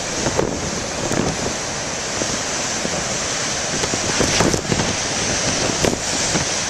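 Heavy storm surf breaking and churning against the rocky shore, with strong wind buffeting a microphone wrapped in a plastic bag, adding brief crackles now and then.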